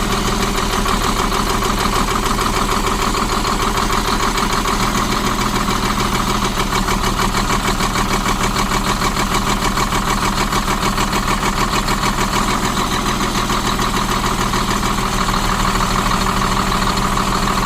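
Diesel engine idling with a steady, rapid knock from a faulty fuel injector, which the mechanic pins to the fourth cylinder.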